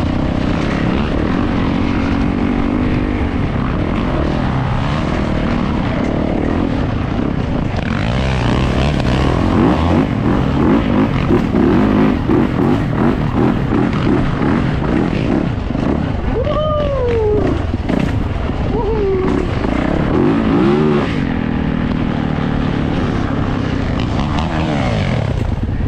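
Yamaha YZ450F dirt bike's single-cylinder four-stroke engine running hard on a trail ride. The revs rise and fall as the rider works the throttle, most clearly about two-thirds of the way through.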